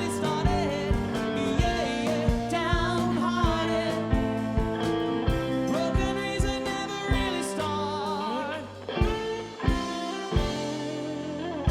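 A rock band playing live: a drum kit keeping a steady beat under bass, guitars and keyboards, with a lead melody that wavers in pitch. Near the end the beat thins out briefly, then comes back with a strong hit.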